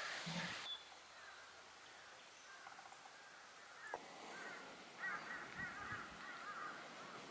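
Faint outdoor ambience. About five seconds in, a bird calls in a quick series of short, arched notes lasting under two seconds.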